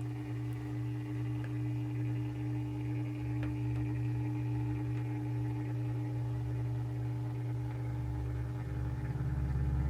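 Steady electric motor hum from a rotating display turntable, a few fixed tones holding level throughout, with the low end growing a little louder near the end.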